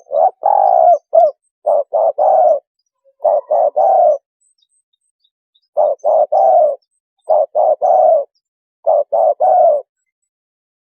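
Spotted dove cooing: six short phrases of three or four low coos each, repeated with brief silent gaps between them, as played on a decoy call track.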